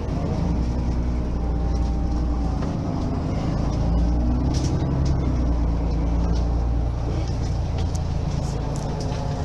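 Mercedes-Benz Citaro facelift city bus running under way, its diesel engine giving a heavy low rumble whose pitch rises and falls as the automatic gearbox takes the bus through its speeds. The rumble is strongest about halfway through and eases off near the end.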